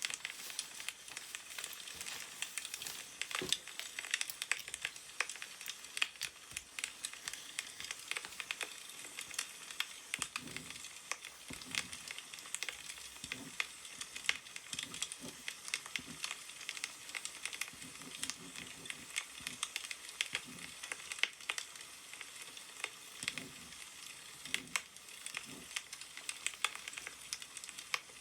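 Wood fire crackling steadily, a dense stream of small irregular pops and snaps. Short, soft, low sounds come now and then from about a third of the way in.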